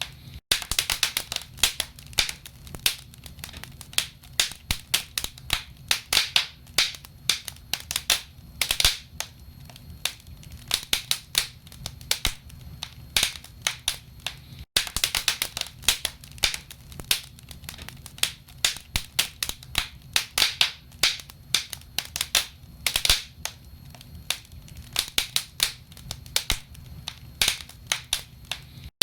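Wood fire burning in a fireplace: logs crackling and popping in many sharp, irregular snaps over a low, steady rumble.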